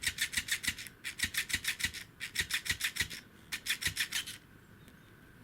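Fast rasping strokes, about seven a second, in four short bursts that stop about four seconds in: a kitten's claws raking and kicking at a fabric toy fish.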